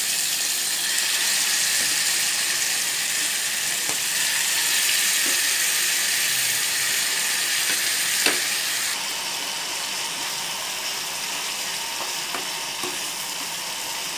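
Masala-marinated prawns frying in hot oil in a shallow pan, a steady dense sizzle. There is one sharp tap about eight seconds in, and the sizzle turns a little quieter a second later.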